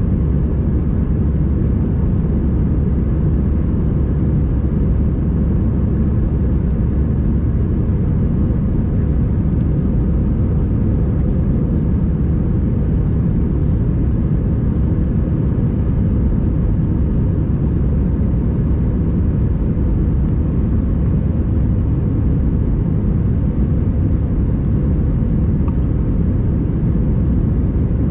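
Steady low rumble of an Airbus A320's cabin in flight: engine and airflow noise heard from inside the passenger cabin, unchanging throughout.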